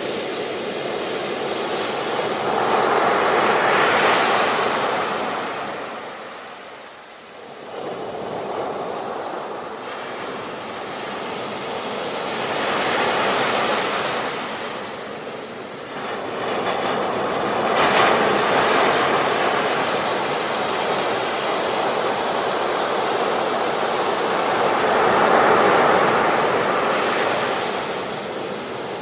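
Ocean surf breaking and washing up a beach in slow swells, four surges rising and falling, with a short lull a quarter of the way through.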